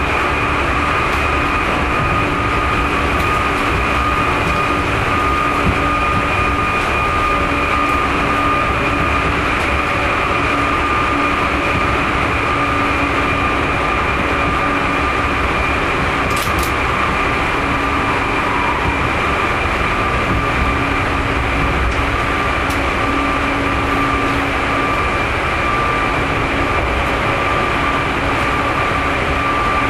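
Tokyu 9000 series electric train heard from inside car 6, running at a steady speed: a continuous rumble of wheels on the rails with a steady high whine that holds its pitch. A single brief click about halfway through.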